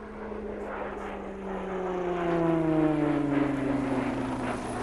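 Short Tucano T1 single-engine turboprop trainer flying past, its engine and propeller tone growing louder and then falling steadily in pitch as it passes, loudest around the middle.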